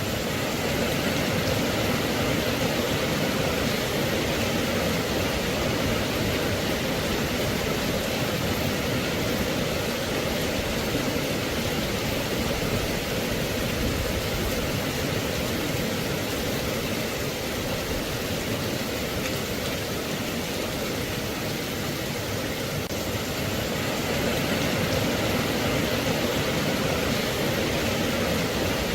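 Steady rain falling, a dense, even hiss with no distinct drops, thunder or changes.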